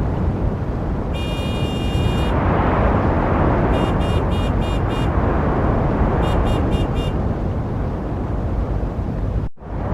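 Steady rumble of passing car traffic, with a car horn sounding once for about a second, then two runs of four short quick honks. The whole sound cuts out briefly near the end.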